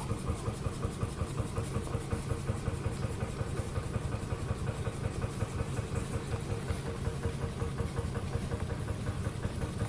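Vintage engine running steadily with an even, regular beat of a few strokes a second.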